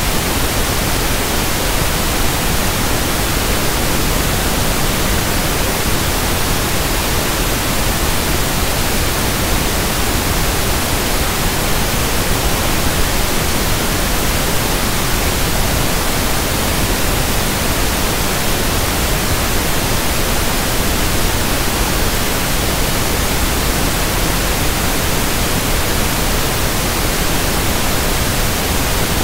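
Steady synthetic pink noise (1/f noise): an even, unchanging hiss across all pitches, with no tones or events.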